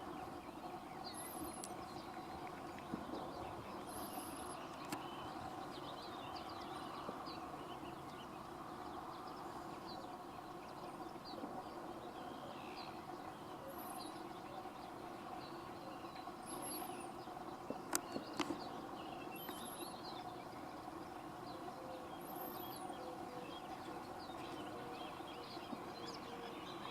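Birds calling, with many short high chirps and calls scattered throughout over a steady background hum. A couple of sharp clicks come about eighteen seconds in.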